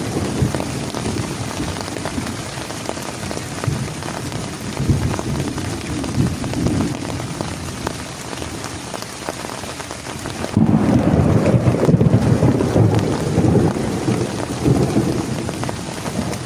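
Heavy rain falling steadily with rolling rumbles of thunder. About ten seconds in, it suddenly gets louder and deeper.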